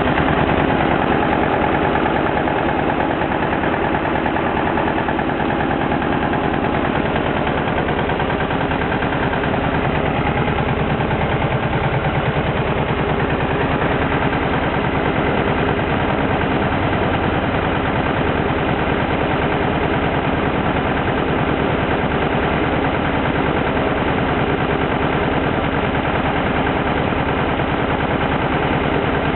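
Freshly rebuilt Porsche 356 air-cooled flat-four engine idling steadily on its first run.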